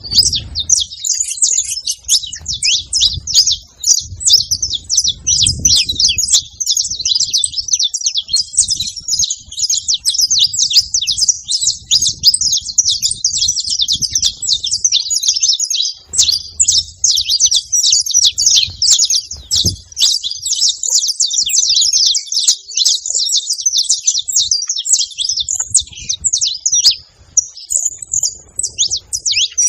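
Several saffron finches (canários-da-terra) singing and chirping together in a dense, unbroken chorus of rapid high trills.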